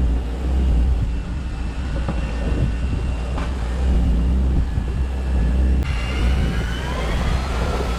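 Fishing boat's engine running with a steady low hum. About six seconds in, a high electric whine starts and swells, one tone rising and then falling: a Shimano Plemio electric reel winding in line.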